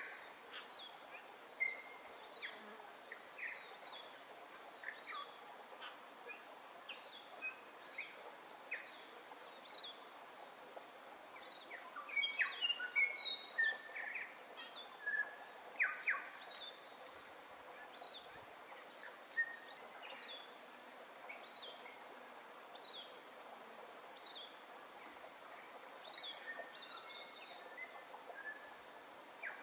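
Several birds chirping and calling in short, scattered notes, busiest about twelve seconds in, over a faint steady hiss of outdoor ambience. A thin high whistle holds for about two seconds near the middle.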